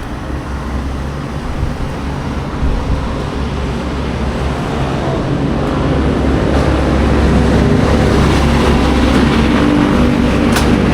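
Two-stroke motocross bike engine idling and running steadily, getting louder about halfway through.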